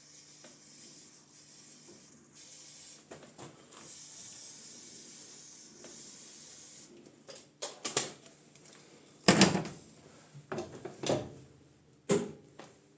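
Aerosol disc-brake cleaner sprayed in a long hissing burst, then a series of sharp knocks and clatters from parts being handled, the loudest about two thirds of the way in.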